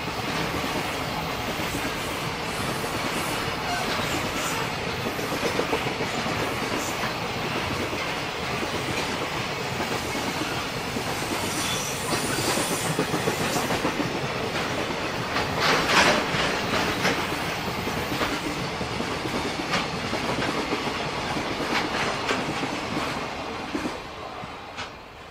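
Freight train of loaded container flatcars rolling past: a steady rail rumble with wheels clicking over rail joints, and a louder moment about two-thirds through. The sound fades near the end as the last wagon goes by.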